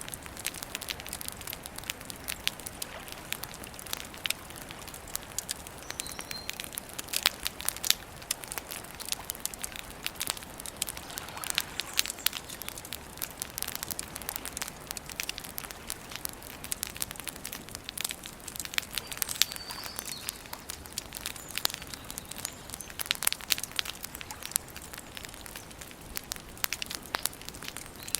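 Wood campfire crackling, with sharp irregular snaps and pops over a soft steady hiss.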